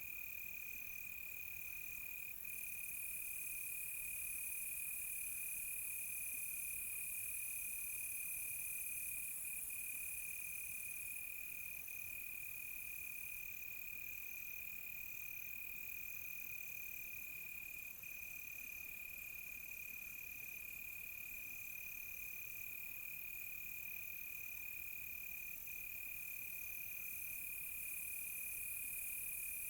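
Night crickets chirping: one steady, unbroken high trill, with a higher insect pulsing in an even rhythm above it and a shrill hiss of many insects that swells louder and eases off several times.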